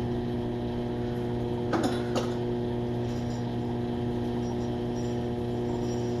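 Microwave oven running with a steady hum, an Angry Mama steam cleaner heating inside. A few light knocks or clinks about two seconds in.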